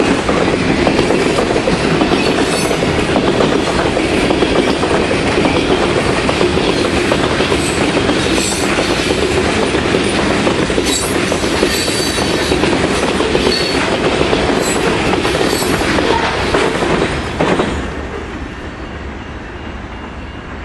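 CSX freight train's cars rolling past close by at speed, a loud steady rumble and clatter of wheels on rail with a few brief high wheel squeals. About three seconds before the end the rear of the train goes by and the sound drops away to a fainter fading rumble.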